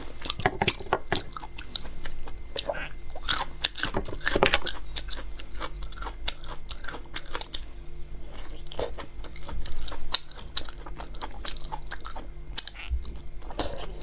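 Close-up wet chewing and biting of braised large intestine: a run of irregular sharp mouth clicks and smacks.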